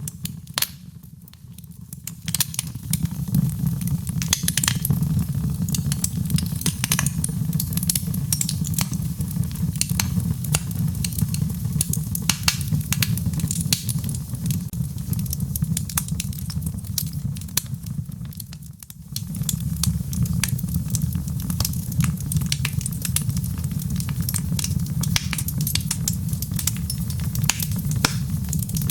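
Wood fire crackling in a fireplace, with frequent sharp pops and snaps over a steady low rumble. The sound dips briefly twice, about a second in and again about two-thirds of the way through.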